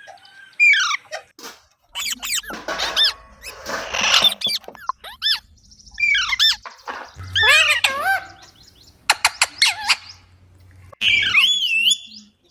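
Pet rose-ringed parakeet calling: a string of sharp chirps and squawks, many bending up and down in pitch, with a burst of clicks about nine seconds in.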